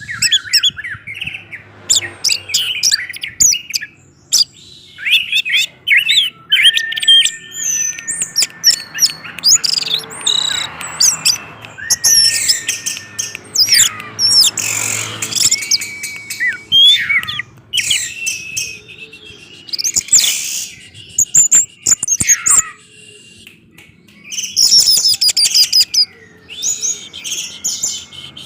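Orange-headed thrush singing a loud, fast, varied song of chirps, trills and gliding whistles, in phrases broken by short pauses.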